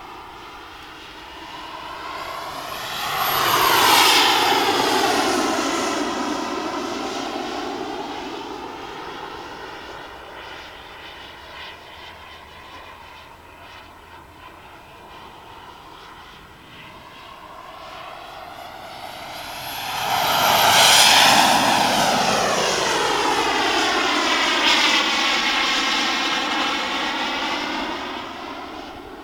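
Turbine engine of a Jet-Italia Kayman 190 radio-controlled model jet making two fast passes, about four seconds and twenty-one seconds in. Each time the jet whine swells and its pitch drops as the plane goes by.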